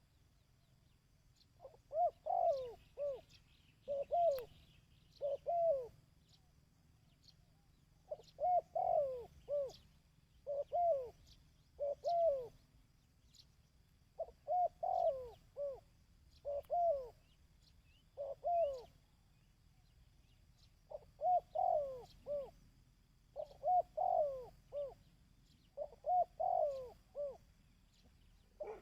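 Decoy dove (chim cu) cooing over and over. Each phrase has three or four short curved coo notes, and the phrases come every one to two seconds, starting about two seconds in.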